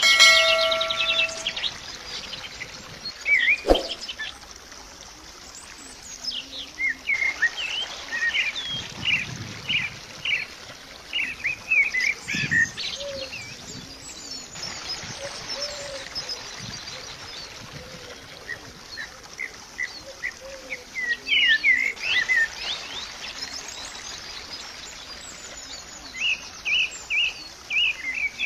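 Birds chirping in bursts of short, quick calls, with a short chime at the very start.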